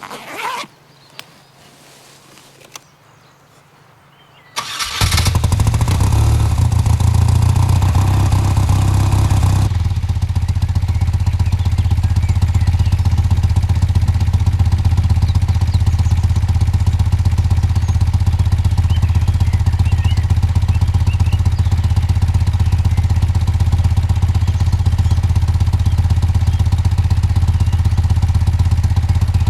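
Motorcycle engine starting suddenly about five seconds in, then running steadily with a low, even hum; it sounds fuller for the first few seconds before settling.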